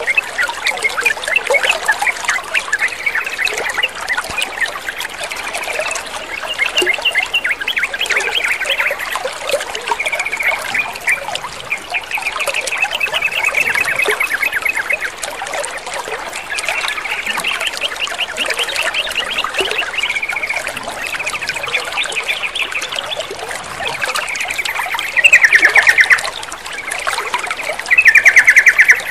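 Water trickling and splashing steadily, with yellow-vented bulbuls (trucukan) singing over it in runs of quick, bubbling chattering notes. Two louder bursts come near the end.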